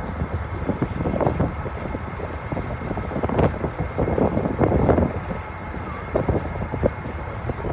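Wind gusting and buffeting across the microphone aboard the MV Hunter ferry, over a steady low rumble of the vessel.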